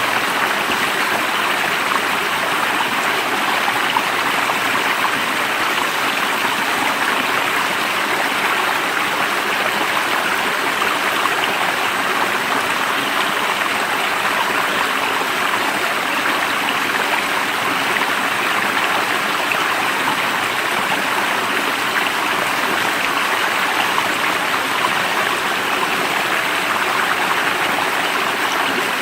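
A stream running steadily, an even wash of flowing water with no change throughout.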